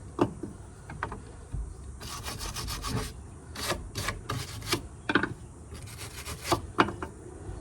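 Small hand brush scrubbing and scraping burnt fuzz out of the holes and crevices of driftwood, in irregular scratchy strokes.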